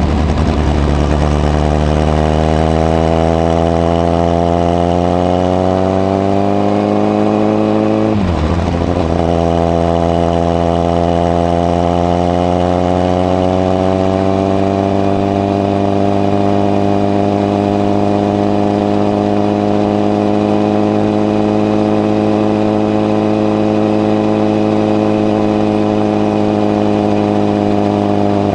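Honda CBR1000RR's inline-four engine breathing through a modified Moriwaki exhaust with the baffle fitted, accelerating with a rising note. About eight seconds in the pitch drops sharply, like an upshift, then climbs more gently and holds steady at cruise, easing off slightly near the end.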